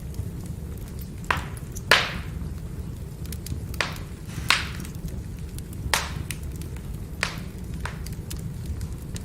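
Firewood burning: a steady low rumble of flame with about seven sharp cracks and pops from the logs, the loudest about two seconds in.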